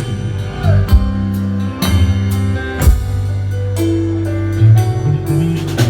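Live blues band playing an instrumental passage between sung lines: sustained chords and bass notes over a drum kit.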